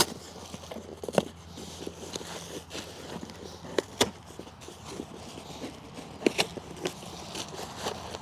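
Irregular clicks, knocks and scrapes of a cardboard box being opened and its contents handled, a sharp knock every second or so.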